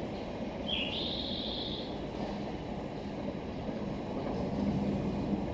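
Electric train running in the distance, a steady low rumble with a faint hum. About a second in, a brief high tone sounds over it, stepping up in pitch partway through.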